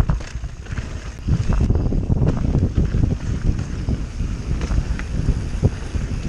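Wind rushing on the microphone over the low rumble and irregular knocks and rattles of a CTM Scroll enduro mountain bike riding down a wet, slippery trail.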